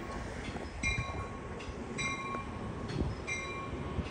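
A train passing with a steady low rumble and small knocks. Over it a bell rings at an even beat, about one strike every second and a bit.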